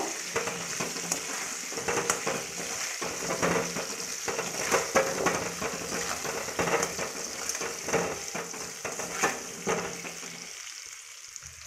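Quartered potato pieces sizzling in hot oil in a metal kadai, being par-fried until about half cooked, while a perforated metal spatula stirs and turns them with repeated scrapes and clinks against the pan. The sizzling and stirring quieten near the end.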